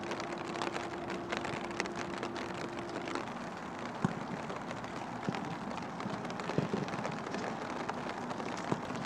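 Steady rain hissing on a grass training pitch, with a few sharp thuds of a football being kicked, the loudest about four seconds in.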